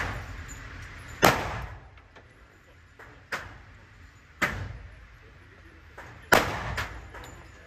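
Five handgun shots fired at an irregular pace, about one to two seconds apart, each with a short echo.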